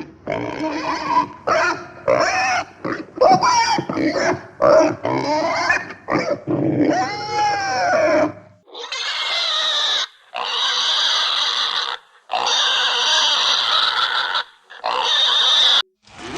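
Pigs calling: a quick run of short grunts and squeals for the first half, then four long, loud squeals.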